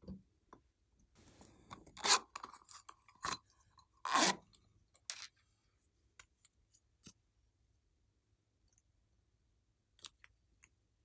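Slime being squished and pressed by hand, making sticky crackling clicks and pops. The loudest squelches come about two and four seconds in, followed by a few small clicks.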